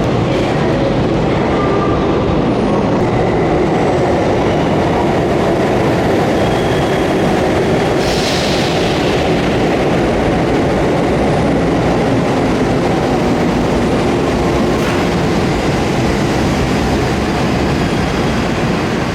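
Hanshin Main Line electric train running at a station platform, a loud steady rumble of wheels on rail, with a brief hiss about eight seconds in.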